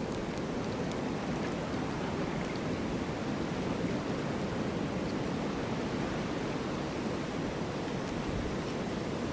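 Steady rushing wind of a snowstorm, an even low noise without gusts or breaks.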